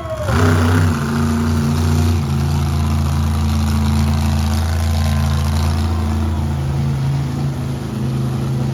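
Monster truck engine running loud, cutting in suddenly just after the start and then holding a steady pitch, which shifts slightly about two seconds in and again near the end.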